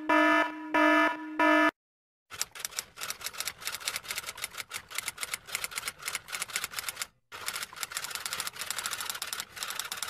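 An alarm's buzzing tone pulses on and off about once a second and stops under two seconds in. After a short silence, typewriter keys clack rapidly and unevenly, with one brief pause near seven seconds.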